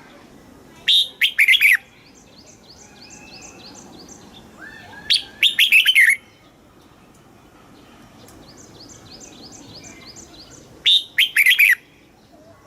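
Red-whiskered bulbul singing short, loud, warbling phrases of about a second each, three times roughly four to five seconds apart. Fainter, evenly repeated high chirps run in the background between the phrases.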